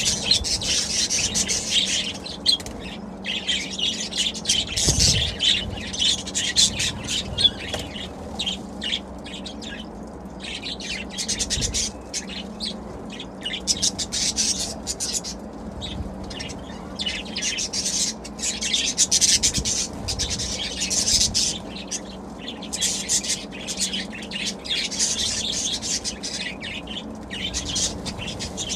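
Budgerigars chirping and chattering continuously, a busy stream of high warbles and squeaks that swells and eases in irregular bursts.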